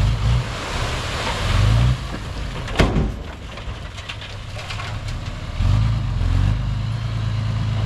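Heavy diesel earthmoving machine running, its low engine drone swelling twice, with a single sharp metallic knock about three seconds in.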